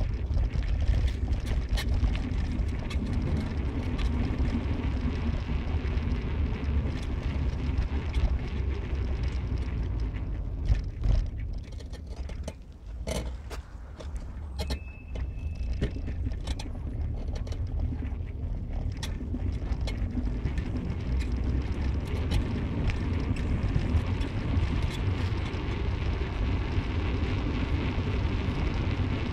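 Car on the move: steady engine and road rumble that eases off for a few seconds about halfway through, with a short high beep in that lull.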